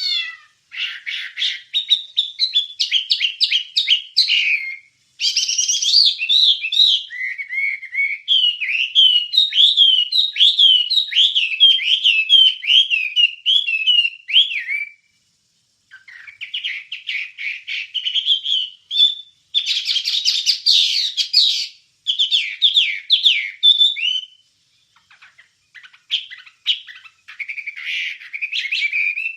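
A wambie songbird singing a long, varied song of rapid trills, chattering notes and quick whistled glides, in bouts broken by short pauses about halfway through and again near the end.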